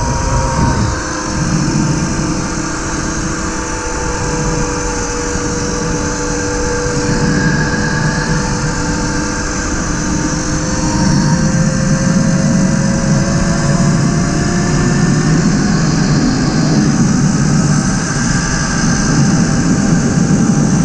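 Tuttio electric dirt bike under way: its electric motor whines in steady tones that slowly shift in pitch with speed, over wind and tyre rumble that grows louder about halfway through.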